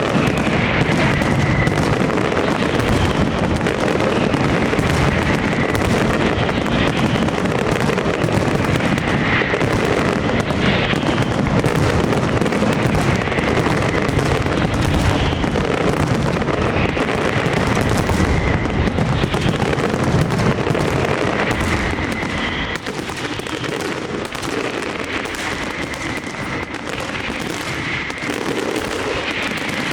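Castillo fireworks display: a dense, continuous barrage of aerial shell bursts and crackle, with short high whistling tones recurring through it. The barrage eases slightly about two-thirds of the way through.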